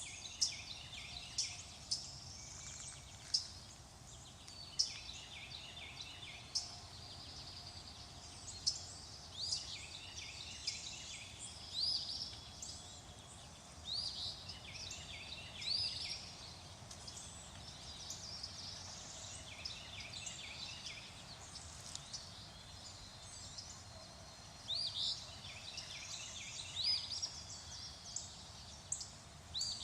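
Songbirds calling and singing: short rising chirps and quick trills, repeated every couple of seconds, over a faint steady background.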